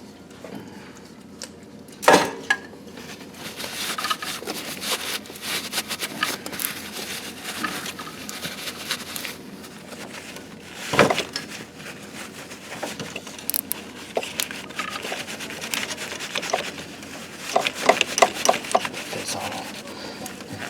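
Clinks, clicks and knocks of hand tools and metal parts being handled during engine-bay work, with a sharp knock about two seconds in, another about eleven seconds in, and a quick run of clicks near the end.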